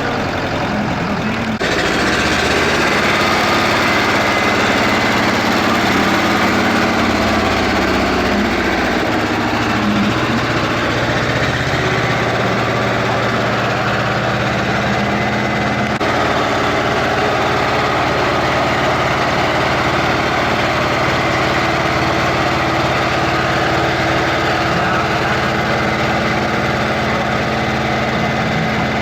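Eicher tractor's air-cooled diesel engine running steadily, its note shifting a few times, with an abrupt change about two seconds in.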